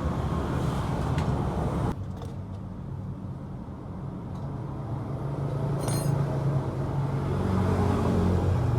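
Yamaha Exciter 135's single-cylinder engine running. It drops abruptly quieter about two seconds in, then slowly builds louder again.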